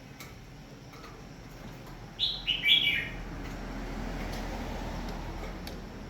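A bird chirping: a quick run of four short, falling chirps about two seconds in, over a low rumble that swells in the second half.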